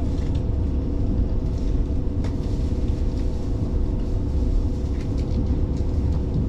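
Diesel railcar running along the line: a steady low rumble with a constant hum, and one sharp click about two seconds in.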